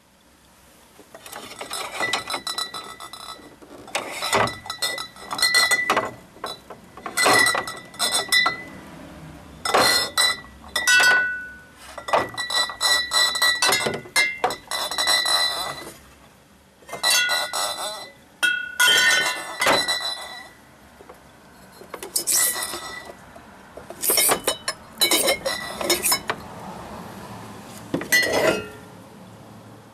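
Glass beer bottles clinking against one another as they are handled and unloaded, a long run of sharp clinks with short ringing tones, coming in clusters.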